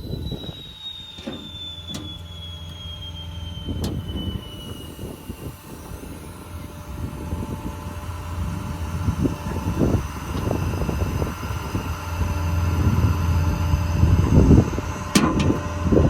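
Hydraulic Quincy air compressor running on the service truck with the engine running, a steady low hum. A whine falls slowly in pitch over the first few seconds, a few sharp clicks come through, and the machine noise grows louder in the second half.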